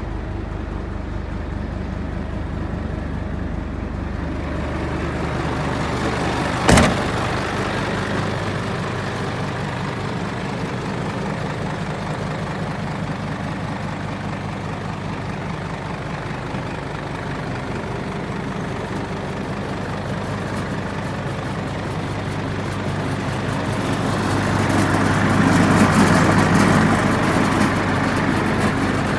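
Hino Ranger truck's diesel engine idling steadily, with one sharp knock about seven seconds in. Near the end the engine note rises and then falls back.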